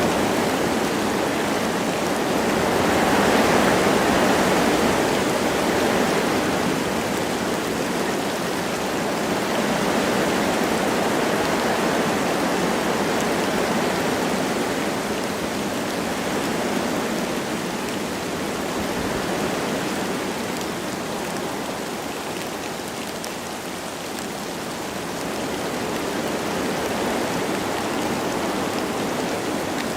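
Wind blowing through forest trees with light rain falling: a steady rushing that swells a few seconds in, then slowly rises and falls.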